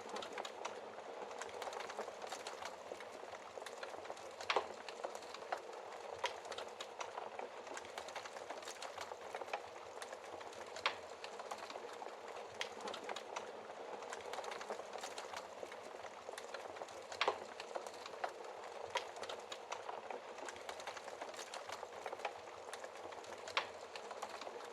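Wood fire burning in a fireplace: a steady hiss of flames with constant small crackles and an occasional louder pop, the sharpest about four to five seconds in, near the middle, and near the end.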